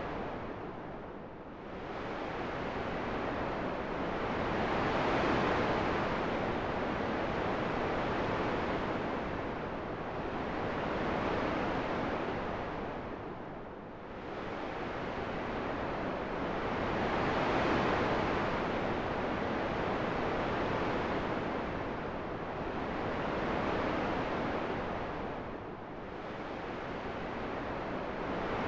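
Steady rushing wind that swells and eases in slow gusts, dipping down briefly about every twelve seconds.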